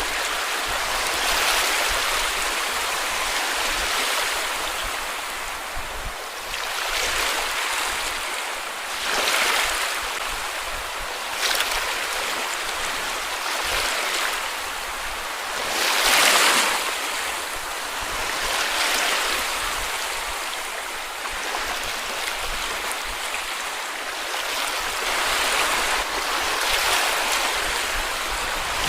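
Small sea waves breaking and washing up a sandy beach, a steady surf sound with swells every few seconds, the biggest about sixteen seconds in.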